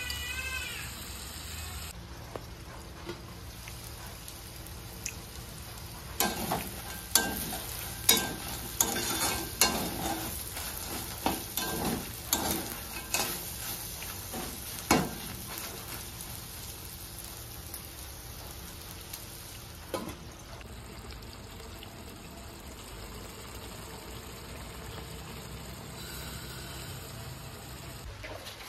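Food sizzling as it fries in a wok, steady throughout. In the middle, for about ten seconds, a metal spatula scrapes and knocks against the pan as silkworm pupae are stir-fried.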